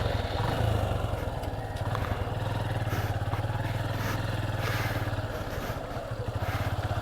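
Motorcycle engine running at low revs with an even, fast pulsing beat, under light clatter from riding over a rough, muddy track.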